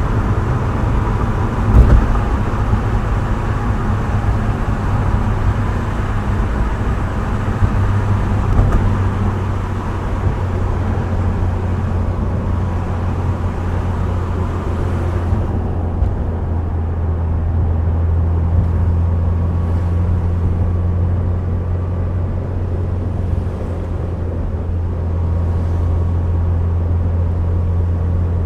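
Subaru Impreza WRX STI Spec C with an A-RM aftermarket muffler driving along, its engine giving a steady low drone under tyre and road hiss. There is a single thump about two seconds in. About halfway through, the hiss drops away abruptly, leaving mostly the low engine drone.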